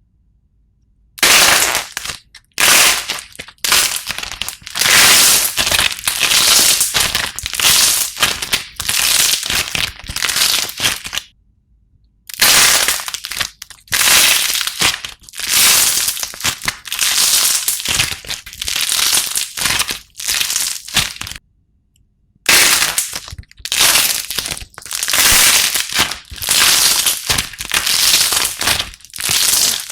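Slime being squeezed and pressed by hand, crackling and crunching in repeated bursts, with two brief silent breaks.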